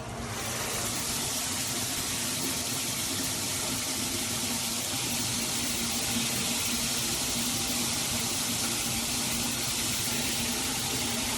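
Water spraying steadily from a VMASSTONE 9-inch rain shower head, coming up to full flow in the first half second and then holding even.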